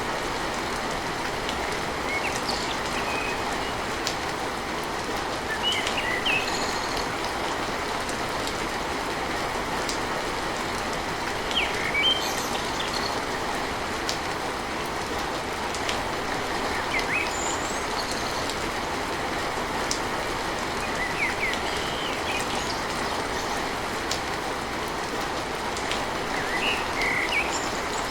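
Steady heavy rain drumming on a tin roof, an even unbroken wash of sound. Short high chirps come through it every few seconds.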